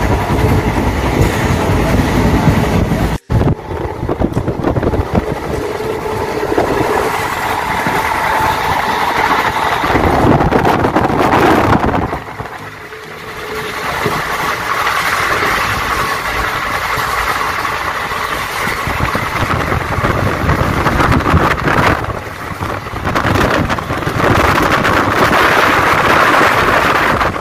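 Passenger train running at speed, heard from an open coach doorway: steady rush of wheel and track noise mixed with wind on the microphone. The sound cuts out for an instant about three seconds in and eases off briefly around the middle.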